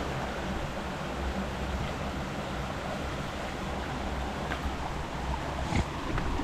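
Steady rush of flowing water from a waterfall and stream, an even hiss, with a small knock near the end.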